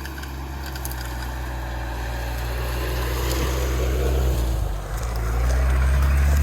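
Lada Niva engine running under way, its low hum growing louder, briefly dropping away about five seconds in, then picking up again.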